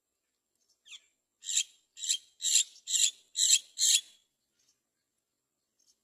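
Great myna chick giving a run of harsh, hoarse calls: a faint one about a second in, then six loud ones at about two a second.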